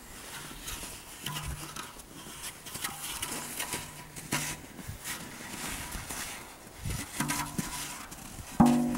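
Crunching, patting sounds of movement through snow, with several short wordless voice sounds, a louder one near the end.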